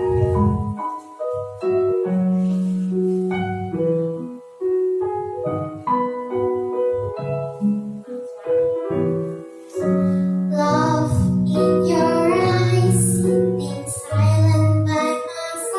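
Piano introduction playing steady chords and melody; about two-thirds of the way in, a child's voice begins singing over the piano.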